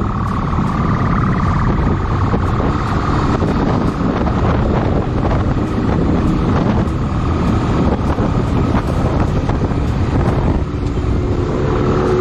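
Motorcycle riding at speed: a steady engine rumble mixed with wind noise on the microphone.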